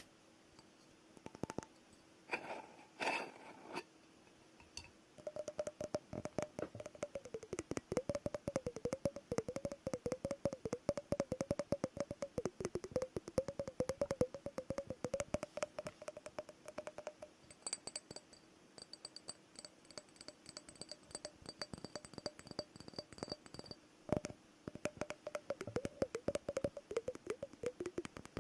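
Rapid fingernail tapping on glass and plastic objects, a fast run of small clicks over a wavering ringing tone, after a few sparse taps at the start.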